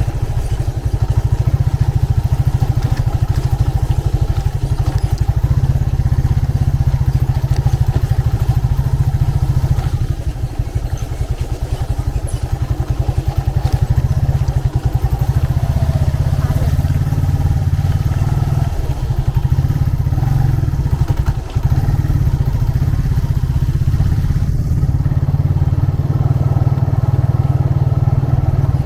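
Motorcycle engine running as the bike rides along, heard close from the rider's seat: a steady low engine note with rapid firing pulses, over road and traffic noise, easing off briefly a couple of times.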